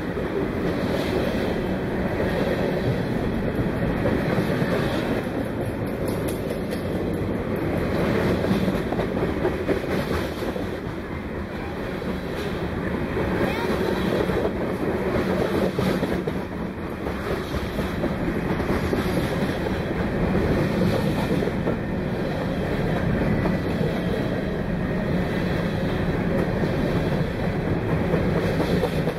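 Freight train cars rolling steadily past, a continuous rumble with the clickety-clack of steel wheels over the rail joints.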